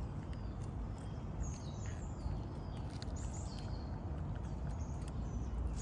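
Steady low background noise with a few faint, short, high chirps of small birds about one and a half to three and a half seconds in.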